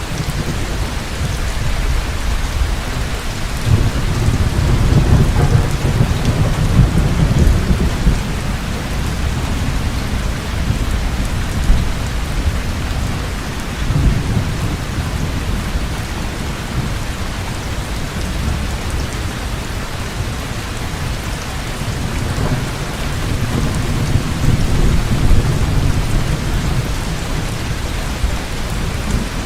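Heavy rain pouring steadily, with thunder rolling in deep rumbles: a long one about four seconds in, another about halfway through, and another near the end.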